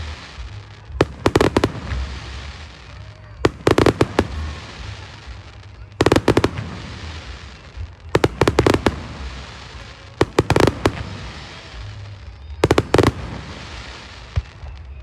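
Fireworks going off in six volleys of sharp bangs, each a quick cluster of several reports, about every two and a half seconds, with a crackling hiss and low rumble between volleys.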